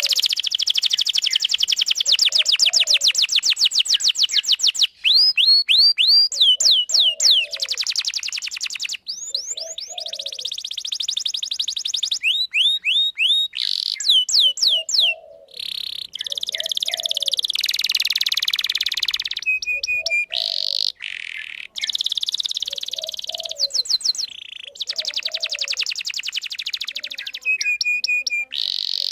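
Domestic canary in full song: long, fast trills of repeated high chirps and rolls, switching to a new phrase every second or two with brief gaps between phrases.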